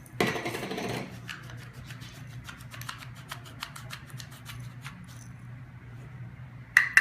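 Stainless steel pepper grinder being twisted by hand: a short grinding rasp, then a quick series of crunching clicks as peppercorns are cracked in the burrs, ending in two sharp knocks.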